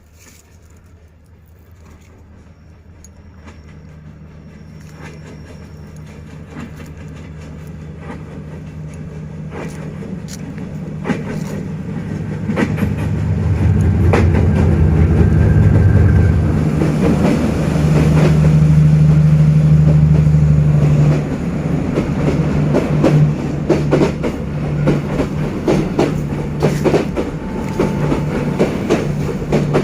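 D19E diesel-electric locomotive approaching, its engine drone growing steadily louder until it goes by about two-thirds of the way through, when the sound drops suddenly. The passenger coaches follow with a quick clickety-clack of wheels over rail joints.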